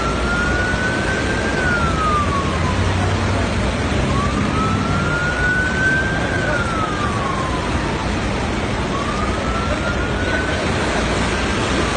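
Emergency vehicle siren wailing slowly. Each cycle rises over about two seconds and then falls, three times in all, over a steady rushing noise.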